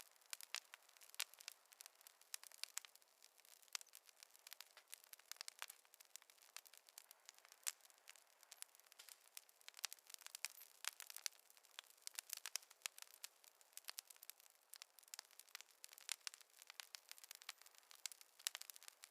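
Wood fire crackling: a dense, irregular run of small snaps and pops over a faint hiss.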